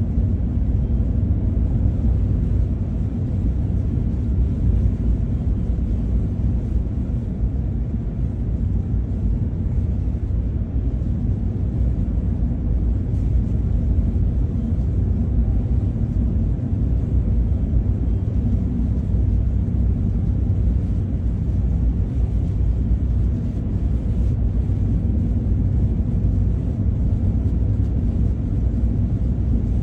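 Steady low rumble of a truck driving down the road, engine and tyre noise heard from inside the cab, unchanging throughout.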